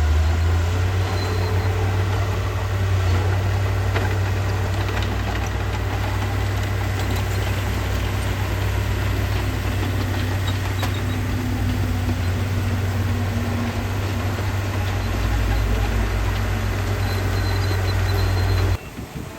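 Heavy diesel engine of earthmoving machinery running steadily with a deep hum. The sound drops away abruptly near the end.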